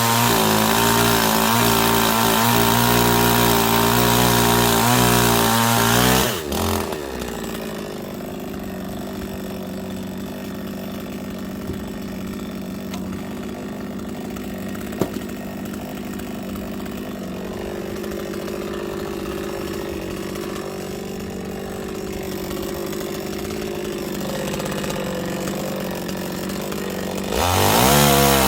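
Chainsaw engine running at high revs, dropping about six seconds in to a steady idle for some twenty seconds, then revving back up near the end.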